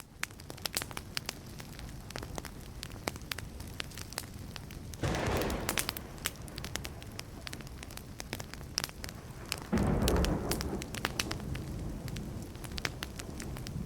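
Wood fire crackling with many sharp pops. Two low claps of thunder swell up, one about five seconds in and a stronger one about ten seconds in.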